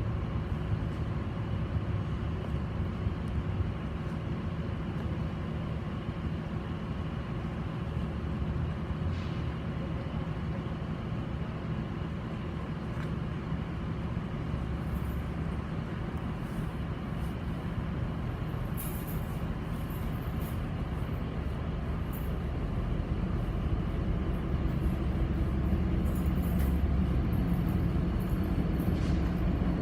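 Diesel locomotives of a Norfolk Southern manifest freight train running with a steady low engine drone and a few faint clicks, growing a little louder over the last several seconds.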